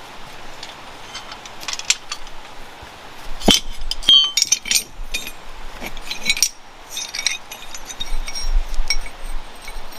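Hard objects clinking together in irregular light knocks, some with a brief high ring.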